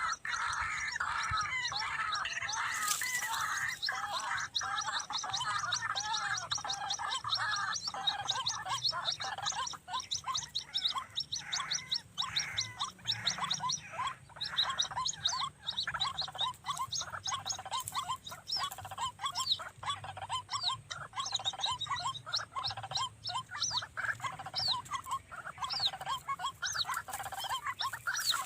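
White-breasted waterhen (ruak-ruak) calls used as a lure: a dense chorus of rapid croaking notes that breaks into separate sharp notes, several a second, after about ten seconds.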